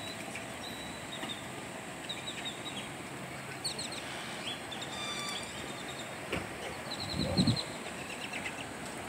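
Small birds chirping in short quick runs of high notes, over a steady outdoor background hum, with a brief low rumble about seven seconds in.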